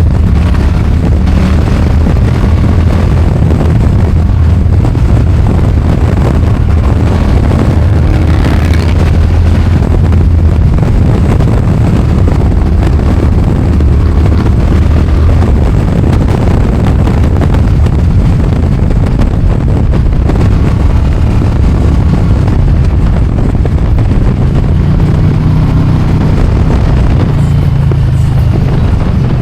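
Indian V-twin motorcycle engine running under way with wind rush. The engine note holds steady, then rises a few seconds before the end as the bike speeds up.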